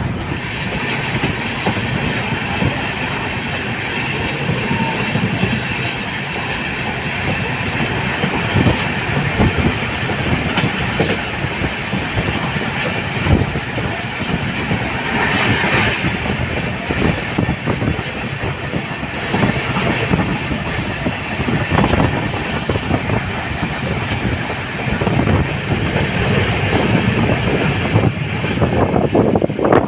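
Moving express train: the steady rumble of the coaches with wheels clacking over rail joints now and then.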